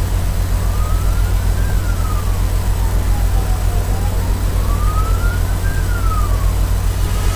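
A siren wailing slowly up and down, about one rise and fall every four seconds, over a heavy steady low rumble that is the loudest sound.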